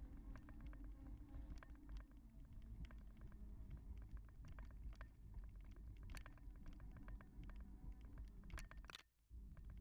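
Faint low rumble with many small ticks and rattles: riding noise from a Sondors e-bike, dropping out briefly near the end.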